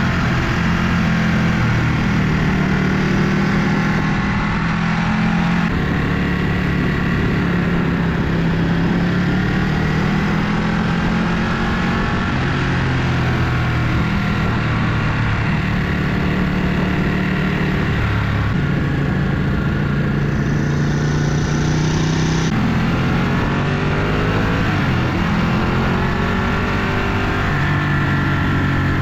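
A vehicle engine running continuously under load, its pitch drifting up and down a little with the throttle.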